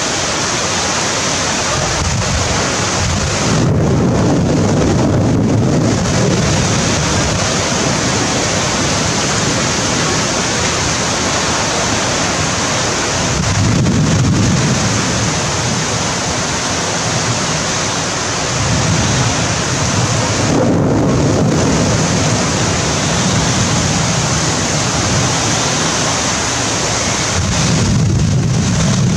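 Heavy downpour of rain with strong wind: a steady, loud hiss of rain, with low rumbles that swell and fade several times.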